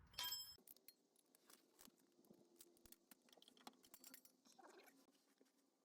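A brief metallic clink that rings for about half a second at the start, then faint, scattered clicks and taps of hand tools working on exhaust hardware.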